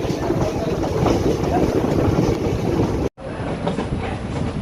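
Running noise of a DEMU (diesel-electric multiple unit) train heard from on board: a steady rumble with many small knocks. It cuts out abruptly about three seconds in and resumes at once.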